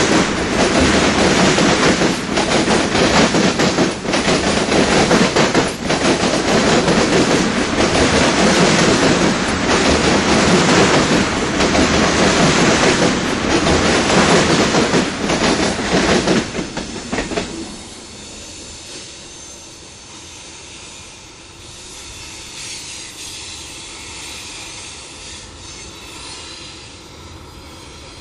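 Freight train of tank cars and boxcars rolling past, steel wheels clacking loudly over the rail joints. About 17 seconds in, the last cars go by and the sound drops to a fainter, receding rumble.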